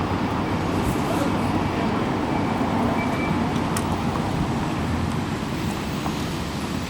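Steady road traffic noise: a continuous wash of vehicles running along a busy city avenue.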